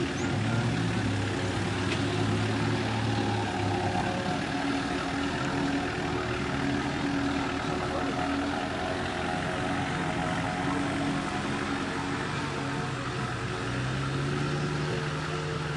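Off-road 4x4 engine running under load, its pitch rising and falling as the throttle changes, over steady outdoor background noise.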